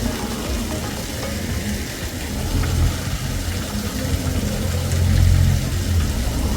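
Artificial garden waterfall rushing with a steady hiss and a low rumble that grows louder about five seconds in.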